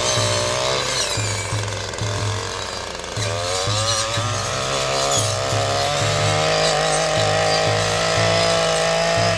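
Two-stroke brush cutter engine running at high revs, its pitch wavering up and down as it cuts grass. Background music with a pulsing bass plays underneath.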